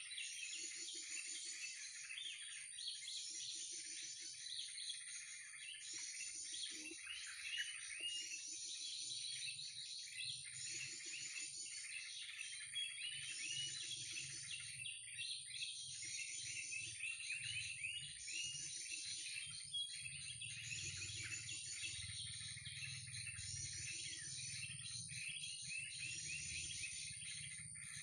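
Bird-lure recording of many small birds chattering, played in a loop that repeats about every second and a half, with a steady high whine over it. A low hum comes in about a third of the way through.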